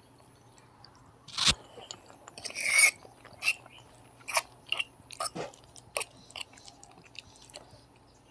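Close-miked eating: a person chewing mouthfuls of instant noodles and fried egg. After a quiet first second come scattered sharp clicks and one louder noisy burst just under three seconds in.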